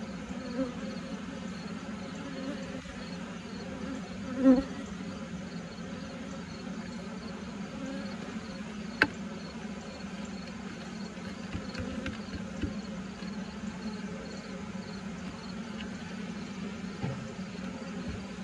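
Honeybees buzzing in a steady, dense hum around an open horizontal hive. The buzz briefly swells louder about four and a half seconds in, and a single sharp click comes about halfway through.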